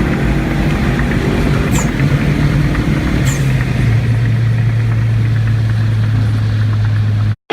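Car engine droning steadily with tyre and road rumble, heard from inside the cabin at highway speed; the engine note drops a little about three to four seconds in. The sound cuts off suddenly near the end.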